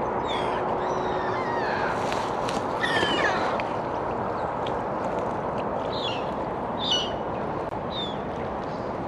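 Birds calling: a series of short, falling calls, loudest about three seconds in and again near seven seconds, over a steady background hiss.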